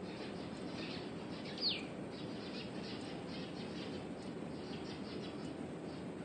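A bird gives one quick, sharp downward-sliding call about a second and a half in, over steady low background noise with a few faint high chirps.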